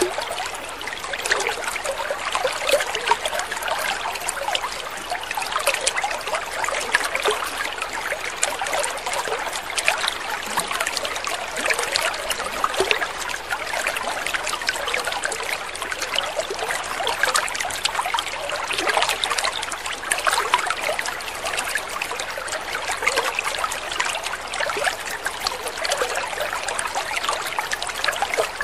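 Water trickling steadily, a continuous patter of many small splashes.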